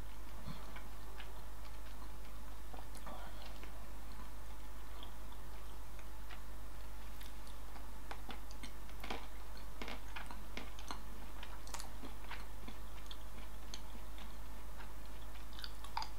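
A person chewing milk chocolate: faint, irregular mouth clicks and smacks over a steady low hum.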